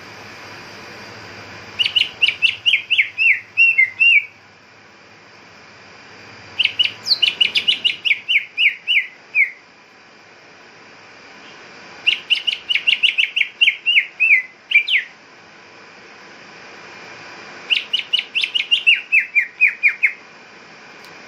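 Cucak ijo (green leafbird) calling in four phrases, each a quick run of about ten sharp whistled notes that step down in pitch over two to three seconds, with pauses of about two to three seconds between phrases.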